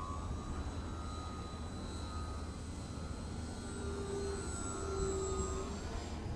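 Remote-control glider's electric motor and propeller whining overhead in flight, the pitch drifting slightly and shifting about six seconds in, over a steady low rumble.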